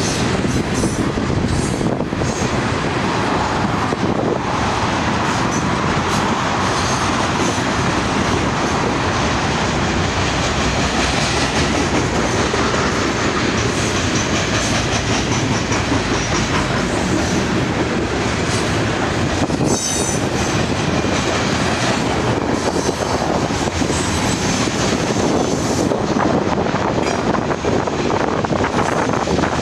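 Loaded coal cars of a freight train rolling past at speed: a steady, loud rumble and clatter of steel wheels on the rail, with occasional faint high wheel squeals.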